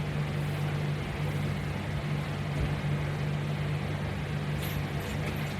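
Steady low hum with an even hiss: constant room background noise with no distinct event.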